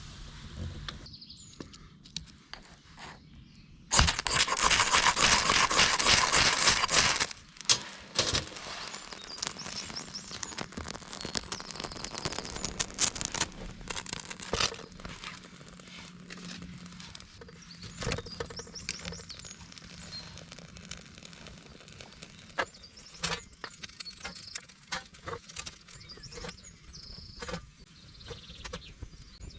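Food sizzling on a hot pan over a campfire: a loud sizzle starts suddenly about four seconds in and lasts about three seconds, then settles into quieter crackling with scattered clicks.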